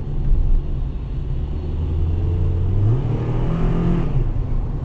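Car engine and road noise heard from inside the cabin: a steady low drone whose pitch climbs in steps about three seconds in as the car accelerates, then drops back.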